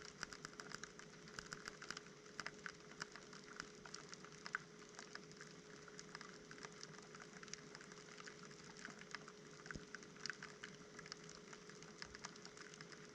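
Near silence inside a resting LG washing machine drum: faint, irregular ticks and clicks, more of them in the first few seconds, over a thin steady hum.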